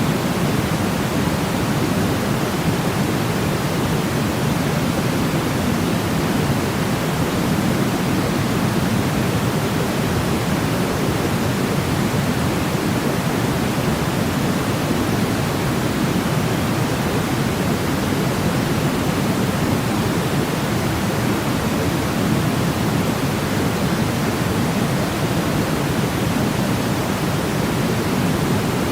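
Steady white noise of the kind played for baby sleep: an even, unchanging hiss weighted toward the low end, closer to pink noise than flat white noise.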